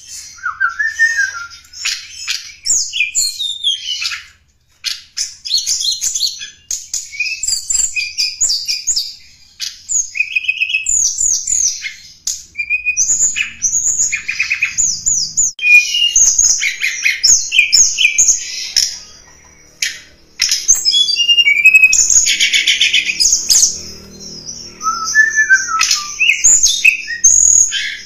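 Lure-call song of the tledekan gunung (snowy-browed flycatcher): rapid, high, thin chirps and twittering phrases follow one another with brief pauses, and one short harsh, buzzy note comes about two-thirds of the way through.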